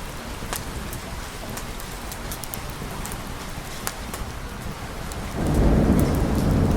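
Steady rain with scattered sharp clicks. About five seconds in, a deep rumble of thunder comes in suddenly and becomes the loudest sound.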